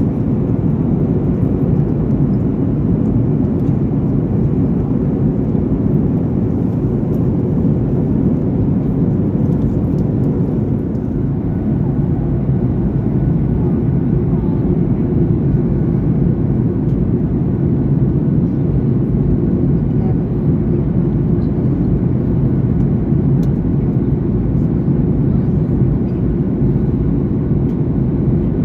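Steady cabin drone of a Boeing 737-900ER in flight: engine and airflow noise heard from an economy window seat, deep and unchanging.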